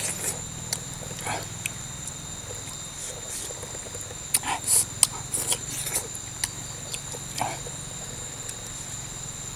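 Close mouth sounds of a man eating cooked coconut worm larvae with chili dip: chewing and lip-smacking in short, irregular clicks and smacks.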